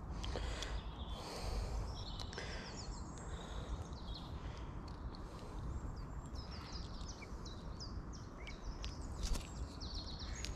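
A songbird singing, repeating short phrases of quick falling notes several times, over a steady low rumble of wind on the microphone. A few sharp clicks, the loudest about nine seconds in.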